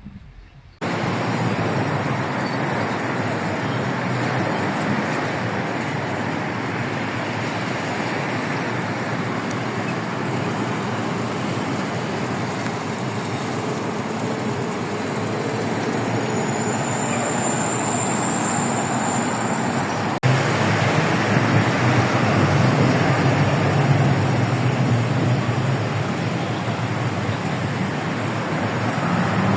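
Steady road traffic noise from a busy highway, cars and heavier vehicles passing. About two-thirds of the way through it abruptly gets louder, with more low rumble.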